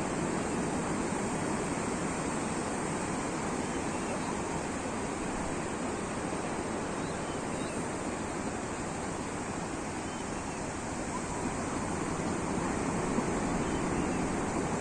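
Sea waves washing onto the shore: a steady, unbroken surf noise that swells slightly near the end.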